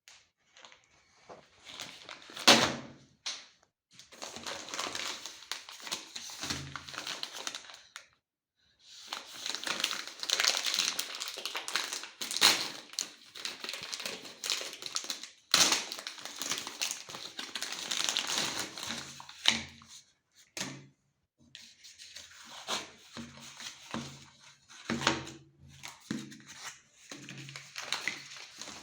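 Packaging crinkling and tearing as it is handled in stretches, with a few sharp thunks, the loudest about two and a half seconds in and near the middle.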